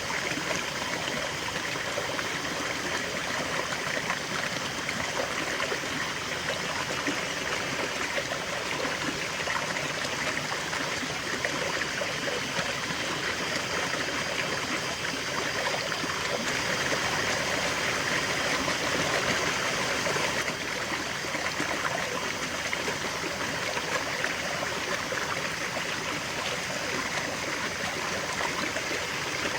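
River water flowing steadily over stones, a continuous rushing and babbling that swells slightly a little past the middle.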